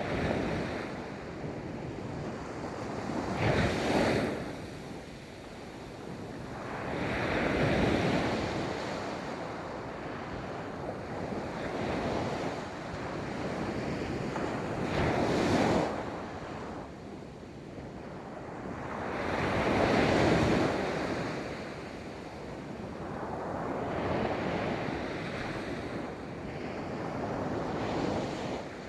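Ocean waves breaking and washing up a beach, a steady surf hiss that swells and recedes in slow surges every few seconds, with wind noise on the microphone.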